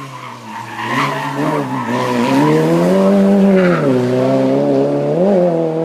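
Race car engine at full song on a hillclimb, its pitch rising and falling as it accelerates and changes gear. There is a sharp dip about four seconds in and a short rev blip just after five seconds.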